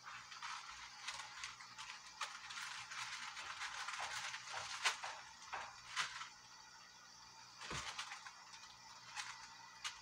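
Fish fillet frying in a covered pan: a steady sizzle full of sharp crackles and pops of spattering oil. It is busiest through the middle and thins to a few scattered pops near the end.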